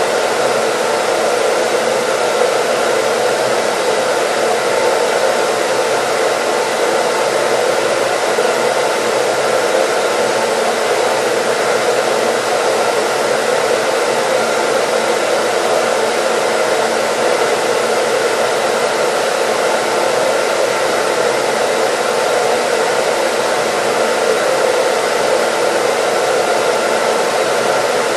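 Hair dryer running steadily: an unchanging rush of blown air with a faint steady motor hum under it.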